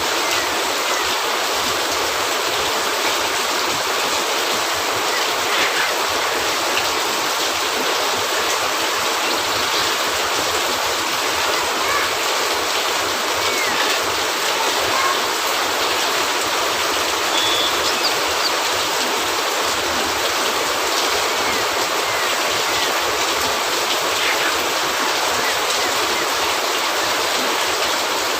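Steady heavy rain on a cabin roof: a dense, even hiss with no let-up, with faint scattered pops and crackles of a fireplace on top.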